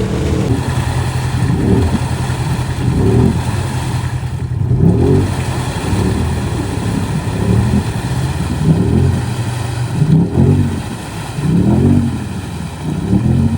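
ATV engine revving hard over and over, its pitch climbing and dropping every second or two.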